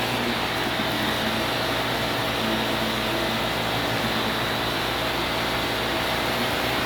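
Vacuum cleaner running steadily, its motor noise even, with a constant faint whine.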